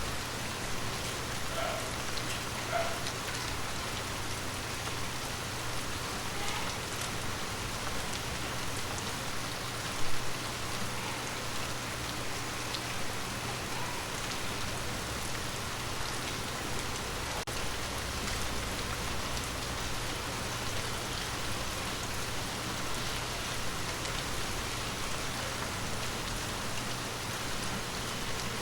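Steady rain falling on forest leaves: an even hiss of rainfall with scattered individual drops pattering, and one brief louder drop hit about ten seconds in.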